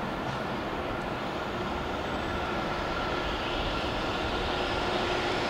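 EF66 electric locomotive approaching at the head of a container freight train: a steady rail rumble that grows slowly louder, with a faint steady whine running through it.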